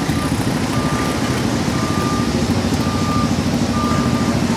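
A vehicle's reversing alarm beeping about once a second, each beep about half a second long, over an engine running steadily close by.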